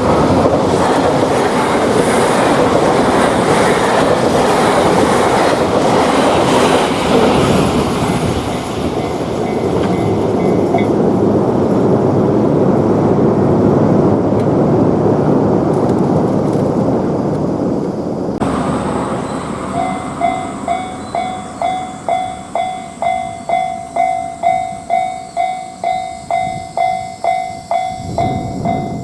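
A train passing close by with a loud, steady rushing noise, a level-crossing bell faintly ringing beneath it for the first several seconds. About two-thirds of the way through, the sound cuts abruptly to a Japanese level-crossing warning bell ringing on its own, an even repeating electronic ding about one and a half times a second.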